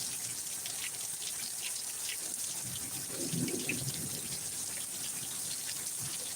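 Heavy thunderstorm downpour: a steady hiss of rain with scattered drips and splashes ticking through it, and a brief low rumble about halfway through.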